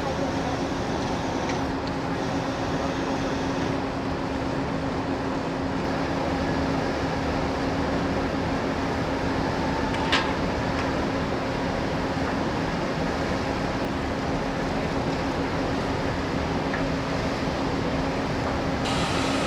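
Steady machinery hum aboard a large car ferry, an even rumble with one constant low drone. A single sharp click about halfway through.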